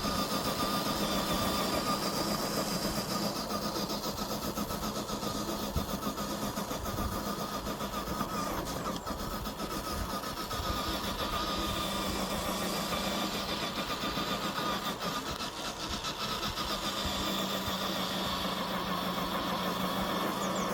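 FMS FJ40 scale RC crawler's electric motor and gearbox whining steadily as it drives, the pitch easing off for a few seconds midway as it slows.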